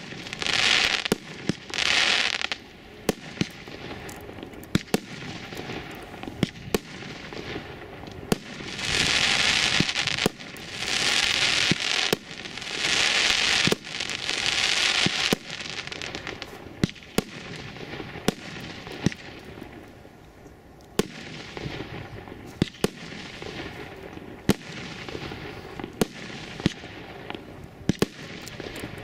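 A 30 mm consumer firework cake firing shot after shot, with sharp bangs about once a second. Several stretches of a second or two are filled with dense crackling from the bursting effects.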